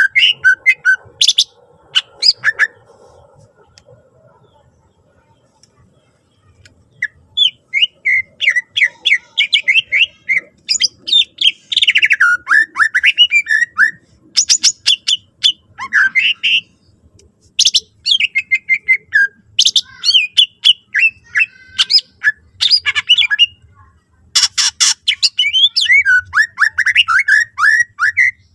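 Cucak ijo (green leafbird) singing: loud, rapid runs of chirps, sweeping whistles and harsh notes, packed with phrases mimicked from other birds. It pauses briefly after the first couple of seconds, then sings almost without a break.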